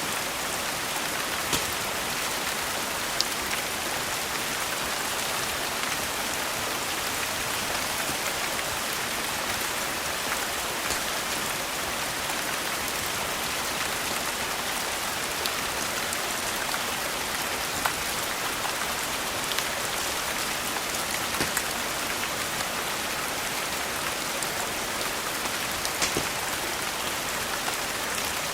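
Steady rain falling, an even hiss of many drops, with a few isolated sharp clicks scattered through it.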